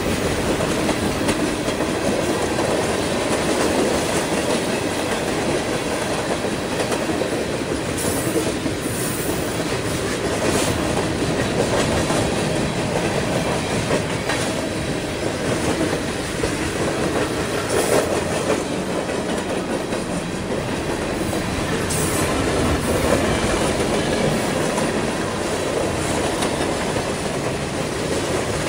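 A long CSX freight train's cars rolling past, a steady rumble of wheels on rail with occasional sharp clicks.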